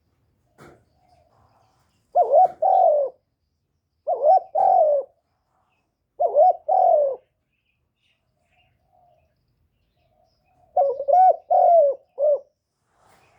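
Decoy spotted dove cooing: three short two-note coos about two seconds apart, then after a pause a longer phrase of four notes near the end.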